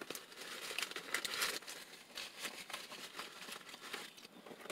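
A person chewing a mouthful of sandwich close to the microphone, with the paper wrapper crinkling now and then; quiet, irregular rustles and small wet clicks.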